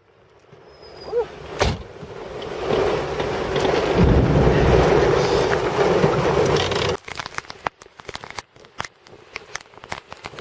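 Thunder rolling: a rumble that swells over a few seconds, is at its loudest with a deep low rumble for about three seconds, then cuts off abruptly, followed by scattered sharp crackling ticks.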